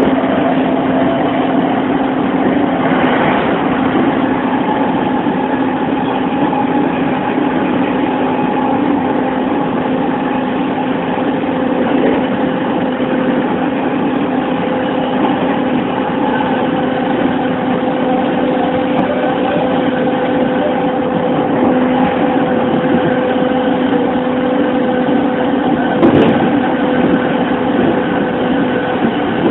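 Running noise inside a JR E231-1000 series electric commuter train cruising at steady speed: constant wheel-and-rail rolling noise with steady motor hum tones, and a sharp knock about 26 seconds in.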